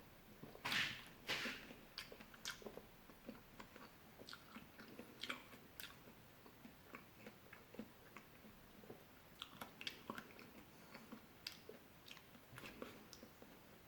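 Fresh fruit bitten into crisply twice about a second in, then chewed close to the microphone with many small wet, crunchy clicks.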